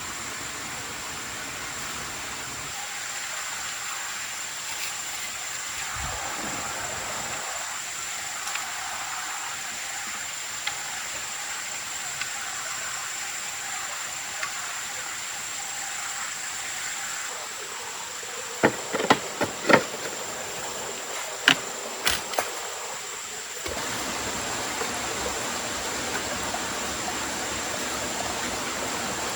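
Steady rushing of water with a constant high-pitched insect tone above it. A handful of sharp knocks comes in a cluster about two-thirds of the way through.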